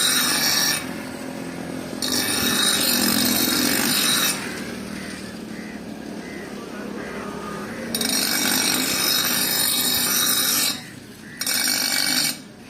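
A power grinder working the steel of a knife blade in four passes of about one to three seconds each. The harsh grinding hiss drops away between passes.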